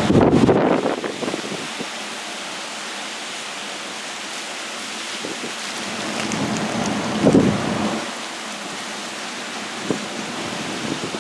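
Heavy tropical-storm rain pouring steadily, with two loud low surges, one at the start and one about seven seconds in, and a short sharp knock near the end.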